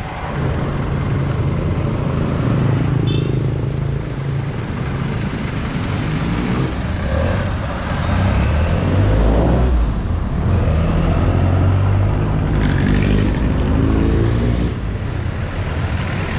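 Busy street traffic: motor vehicle engines run steadily, with a few passing vehicles whose engine pitch swells and glides about halfway through and again near the end.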